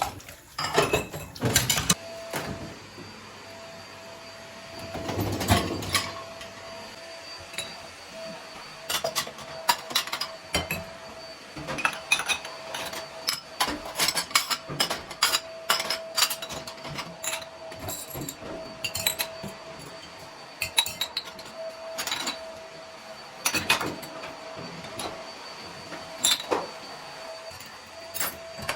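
Many light, irregular clinks and knocks of dishes and glassware being handled, over a faint steady hum.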